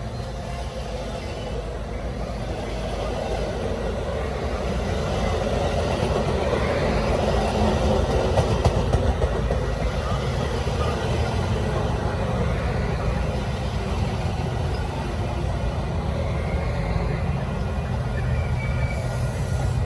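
Metra commuter train rolling past: a steady rumble of wheels on rails that builds over the first several seconds and then holds.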